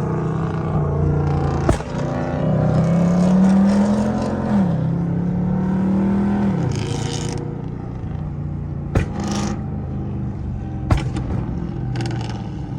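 Car engine accelerating hard: the note climbs, drops suddenly at a gear change about halfway through, holds, then falls away as the driver lifts off. A few sharp clicks come later.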